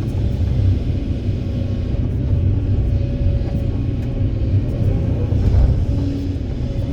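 Heavy diesel engines of an excavator and dump truck running steadily at work, a deep low rumble with a steady hum above it.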